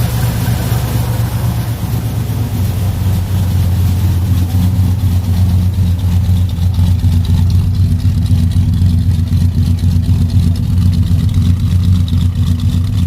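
1972 Chevrolet Monte Carlo's 350 V8 with a four-barrel carburettor idling steadily shortly after a cold start in freezing weather, getting slightly louder about four seconds in.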